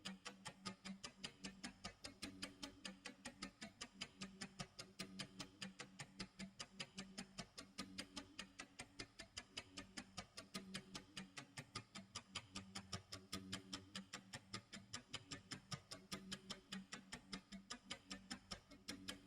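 Clock tick-tock sound effect: an even run of sharp ticks, about four a second, with a faint low tone underneath.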